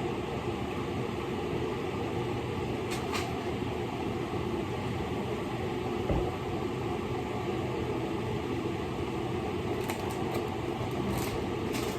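Steady mechanical whirring hum with a few light clicks and a soft low thump about six seconds in.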